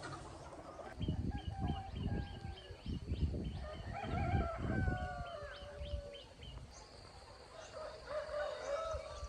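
Rooster crowing, a long call about four seconds in and another near the end, over low rumbling thumps in the first half.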